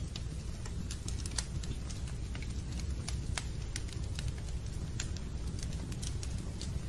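Fireplace crackling: irregular sharp pops and snaps, a few each second, over a steady low rumble of the burning fire.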